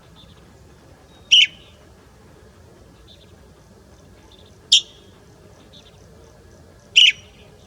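A wild bird giving short, sharp high calls: three loud ones two to three seconds apart, with fainter calls in between.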